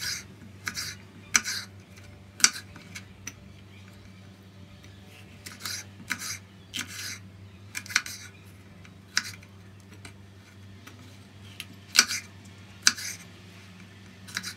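Knife slicing red and green peppers into long thin strips on a wooden cutting board: irregular crisp cutting strokes in runs, with a couple of short pauses between them.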